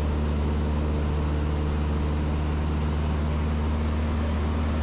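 A Cessna light aircraft's piston engine and propeller running with a steady, unchanging drone.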